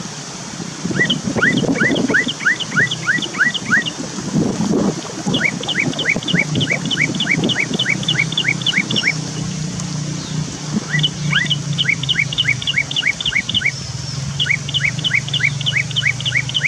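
Cucak keling calling: four bouts of quick, rising whistled notes, about three a second, with short gaps between bouts.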